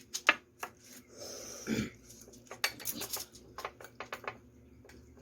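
Cutlery clicking and scraping against dishes while eating, in a string of sharp irregular clinks, with a brief rustle about a second in.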